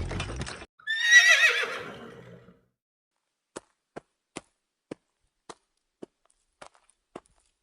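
Galloping hoofbeats that stop just after the start, then a horse whinnies for about a second and a half, a wavering high call falling in pitch. Single hoof clops follow at a walking pace, about two a second.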